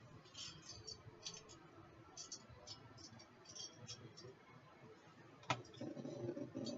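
Faint, light clicks and ticks of small plastic items being handled, then one sharper click about five and a half seconds in.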